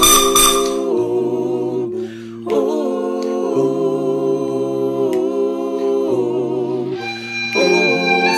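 Phonics song: a voice humming a tune in held notes with a slight waver, like the 'mmm' sound of the letter M, with a short break about two seconds in.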